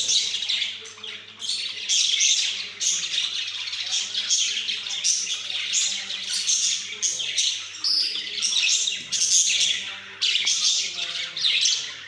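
Pet budgerigars chattering and warbling: a dense, continuous stream of rapid high chirps and squawks with only brief lulls.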